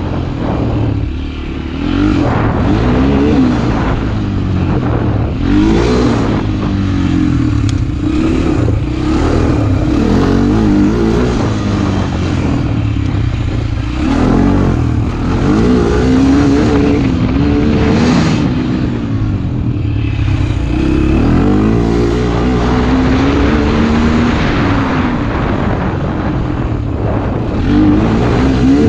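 Motorcycle engine running under riding, its pitch rising and falling again and again as the throttle is opened and closed through the gears, with wind noise over it.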